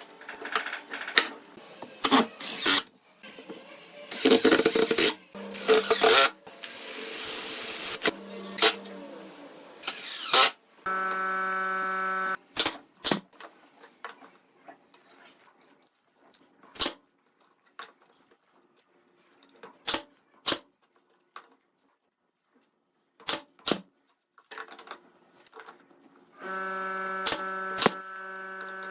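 Workshop work sounds: scattered sharp knocks and clicks, a stretch of rough scraping noise, and a power tool's motor running steadily twice, briefly near the middle and again near the end.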